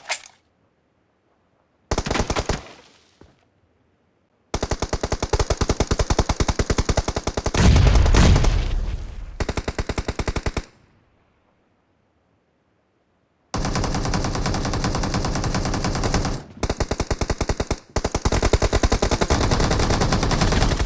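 Video-game automatic gunfire: long bursts of rapid fire that cut in and out abruptly, separated by stretches of dead silence, with a heavy low boom about eight seconds in.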